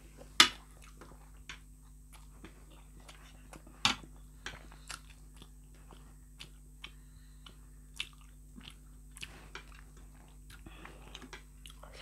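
Close-up eating sounds: chewing and mouth smacks over a mouthful of spicy instant noodles, with scattered sharp clicks, the loudest about half a second in and just before four seconds.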